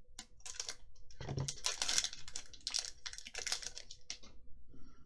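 Magic: The Gathering cards being handled, a quick irregular run of crisp clicks and swishes as the cards are flicked through and slid against each other.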